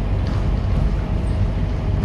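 Scania K230UB city bus running: a steady low diesel rumble with road noise, and a faint steady whine from about halfway in.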